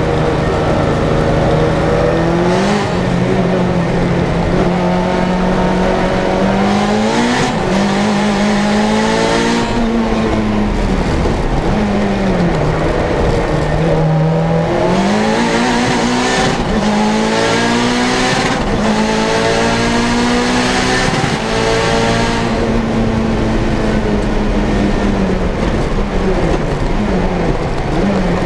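Tuned turbocharged four-cylinder engine of a Lancia Delta Integrale 16v at full race pace, revving up under hard acceleration and dropping in pitch at each gear change or lift. There are several short bursts of hiss along the way.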